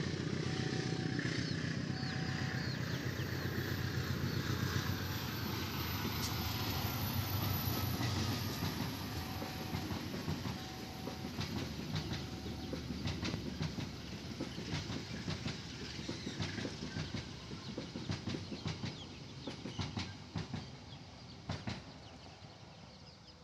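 Passenger train hauled by a CC 201 diesel-electric locomotive passing close: the locomotive's diesel engine runs loud at first, then the coaches' wheels clatter rhythmically over the rail joints, fading as the train moves away.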